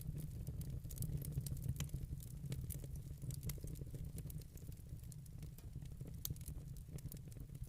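Fire in a fireplace crackling, with many small irregular snaps and pops over a steady low rumble of the flames.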